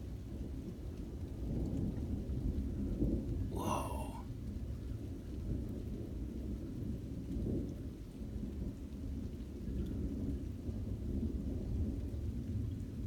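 Rolling thunder: a continuous deep rumble that swells a couple of seconds in and keeps on rolling.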